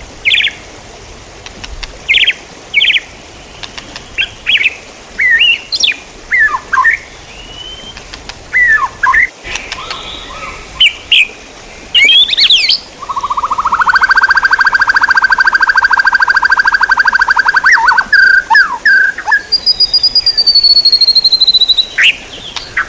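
Songbird song: a string of short whistles and chirps, then about halfway in a long, fast trill lasting several seconds with a thin high whistle held above it, and a falling high whistle near the end.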